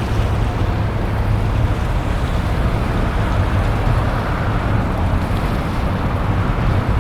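Steady wind buffeting the microphone outdoors: a continuous low rumble with a hiss above it.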